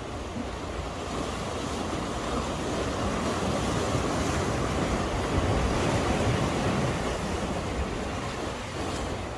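Sea swell washing and breaking against a breakwater, with wind rumbling on the microphone; the surge builds to a peak about halfway through and then eases.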